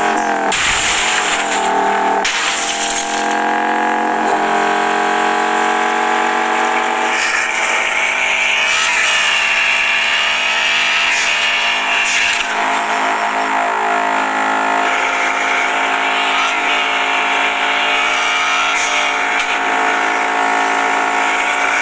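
Honda K20A 2.0-litre four-cylinder engine of an Integra Type R DC5 running while driving, its pitch changing briefly in the first few seconds and then holding mostly steady at cruising rpm.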